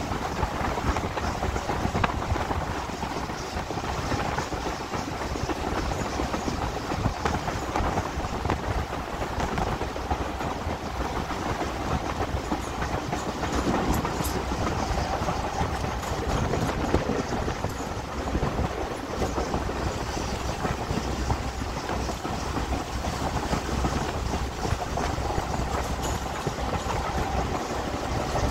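A diesel-hauled heritage train running along the track: a steady rumble and rush of wheel noise, with many small clicks from wheels on rail.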